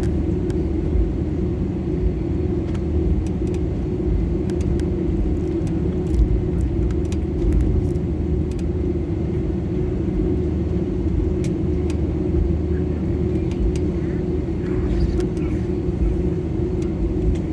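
Steady in-flight cabin noise of an Airbus A320: a constant drone of the jet engines and airflow, with a steady low hum.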